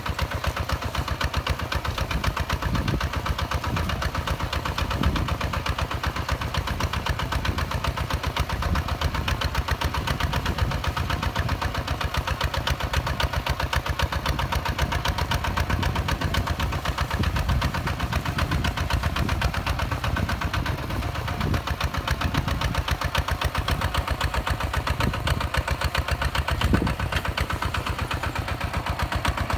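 Diesel engine of a Hinota HG Gold 155 DI tractor running steadily at a constant speed, with a rapid, even firing beat.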